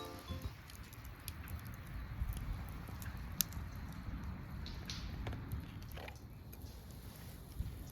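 Faint scattered clicks and crackles over a steady low rumble, with a few sharper ticks spaced irregularly through it.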